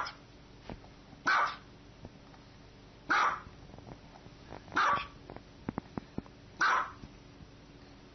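A small dog barking at an even pace: five single, fairly high barks, about one every second and a half to two seconds.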